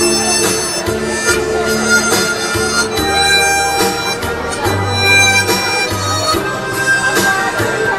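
Harmonica playing a sustained, chord-rich melody over a recorded backing track with a moving bass line and a steady beat.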